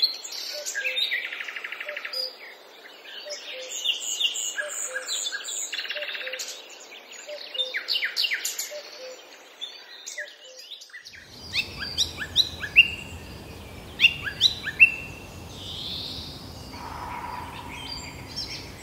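Several forest birds chirping and calling over one another, with many short falling whistles in the second half. A faint note repeats about twice a second in the first part. A low steady noise begins about eleven seconds in.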